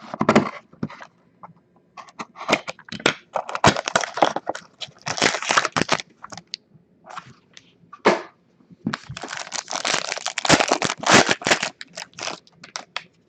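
Plastic shrink-wrap and packaging on a hockey card box being torn open and crinkled, in a run of sharp crackles and rustling bursts, with a longer stretch of crinkling in the middle and another near the end.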